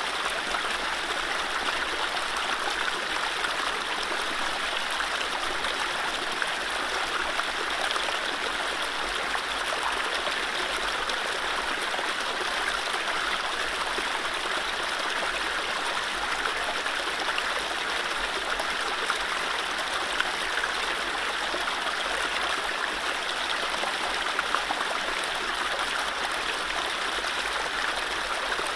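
Mountain stream running steadily over low rapids, a continuous even rush of water with fine trickling.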